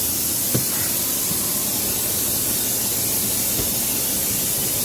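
Steady hiss of compressed air escaping from the coach's air-suspended driver's seat, an air leak, with a single click about half a second in.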